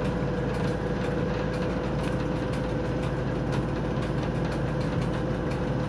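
The TEP70 passenger locomotive's V16 diesel engine runs steadily, with a steady whine laid over the engine noise.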